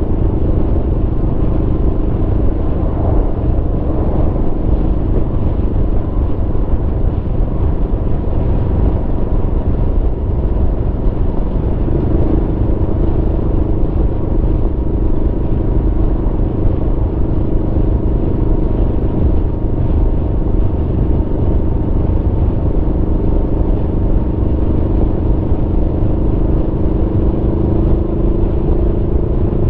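Aprilia Tuono V4's V4 engine running at a steady cruise while riding, over a low rumble of wind and road. The engine note steps up about twelve seconds in and rises slowly near the end.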